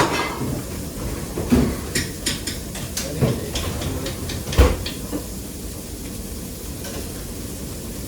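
Pots, pans and utensils clattering: a handful of scattered knocks and clinks, the loudest about four and a half seconds in, then only steady background noise.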